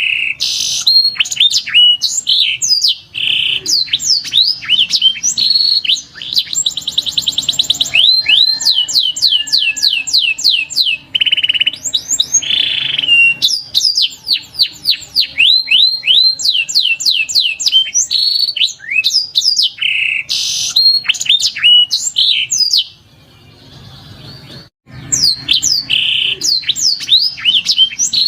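Domestic canary song: fast rolling trills alternating with quick sweeping whistled notes, with a brief pause about four-fifths of the way through.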